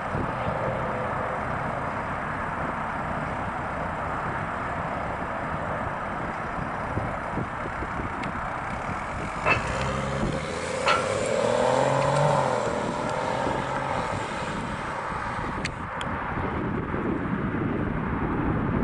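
Car running with a steady engine and road noise, with a few sharp clicks and a brief wavering tone midway.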